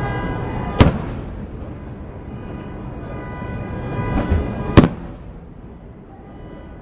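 Aerial fireworks bursting: two sharp bangs about four seconds apart, over a continuous low rumble of more distant bursts.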